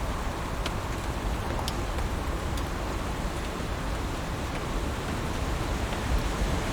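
Heavy rain falling steadily on leaves, an even hiss with scattered sharp drop ticks.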